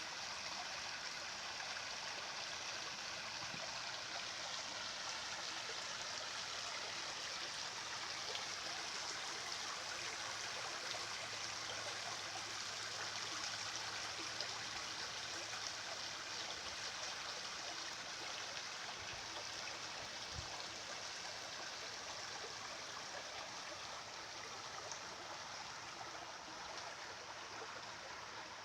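A flowing stream, its water running in a steady, even wash of noise.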